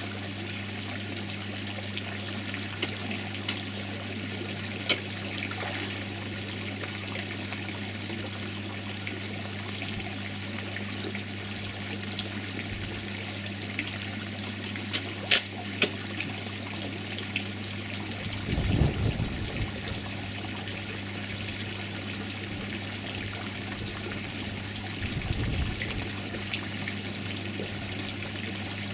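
Garden koi pond water trickling steadily over a low, even electrical hum from the pond pump. Twice there is a splashy swirl at the surface, about two-thirds of the way in and again near the end, as koi take food.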